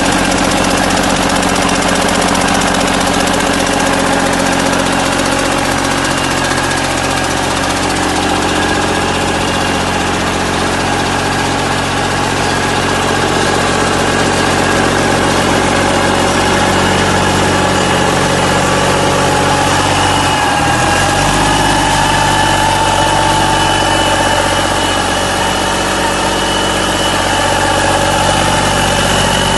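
1999 Cummins ISM-330 inline-six diesel engine running at a steady idle, with a brief change in its note about two-thirds of the way through before it settles again.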